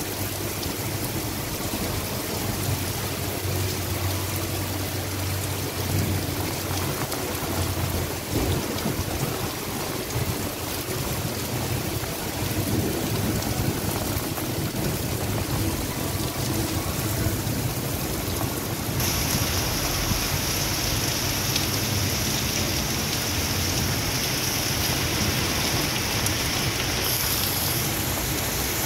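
Heavy rain falling, a steady hiss; about nineteen seconds in it turns brighter and hissier.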